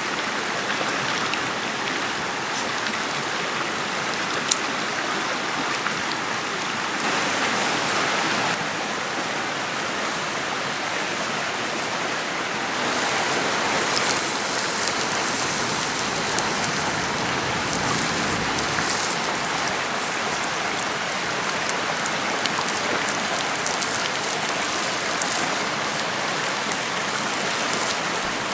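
Steady rushing water noise, like rain or a nearby stream, with a few faint sharp clicks.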